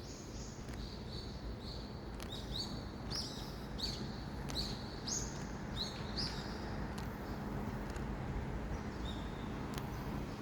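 A small bird chirping: a run of short, high notes, about two a second, then a pause and one more note near the end, over a steady low background rumble.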